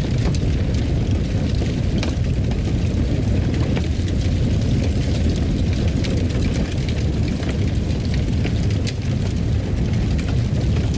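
Wood fire in a fireplace burning with a steady low rumble, and scattered small crackles and pops throughout.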